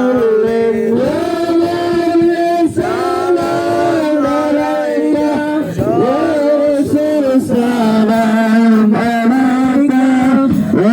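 Male voice singing a melismatic Islamic devotional chant, with long held notes that waver and glide between pitches.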